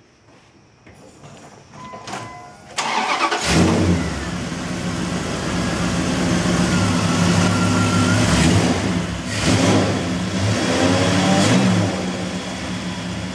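A 360 cubic-inch gasoline V8 cranks and catches about three seconds in, then runs with several blips of the throttle, rising and falling in pitch. It is a healthy, low-mileage engine that runs well.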